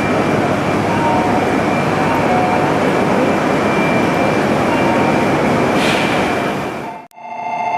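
Steady loud rumble and hiss of a Shinkansen train at a station platform, which cuts off abruptly about seven seconds in. A ringing electronic bell starts just before the end.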